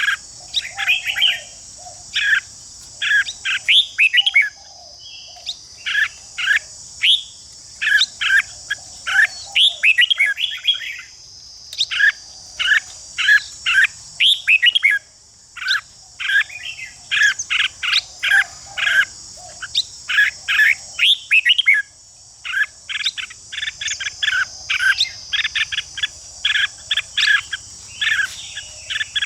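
Red-whiskered bulbuls singing in quick bursts of short, varied notes, phrase after phrase with brief gaps. A steady high insect drone runs behind them and drops out now and then.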